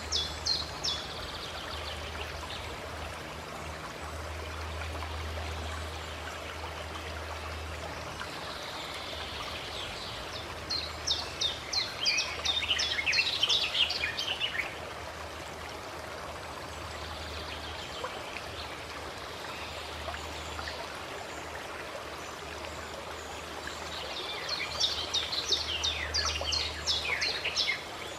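Steady flow of a stream, with a songbird singing quick phrases of short high notes twice, about halfway through and near the end.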